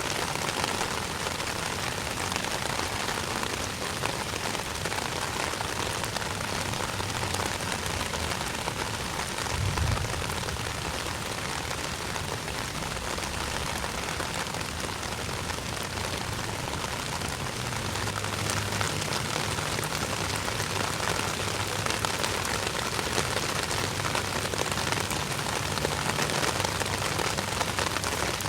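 Steady rain falling and pattering on surfaces, an even, unbroken hiss, with a brief low thump about ten seconds in.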